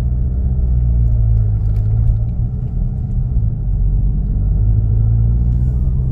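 Inside the cabin of a 2019 VW Jetta GLI, its EA888 2.0-litre turbo four-cylinder pulls away from a stop under about 16 psi of boost with a steady low drone. No turbo or intake noise stands out from the cab, even with the new intake, turbo inlet and turbo muffler delete.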